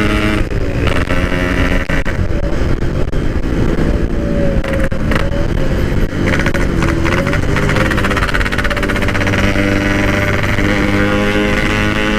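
Yamaha RX-King two-stroke single-cylinder motorcycle engine running under way through a stock-style tin exhaust, heard from the bike. The engine note shifts with the throttle in the first half, then holds steady.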